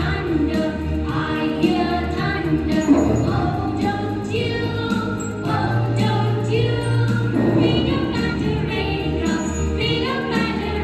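A song with a group of voices singing held, wavering notes over a steady instrumental accompaniment.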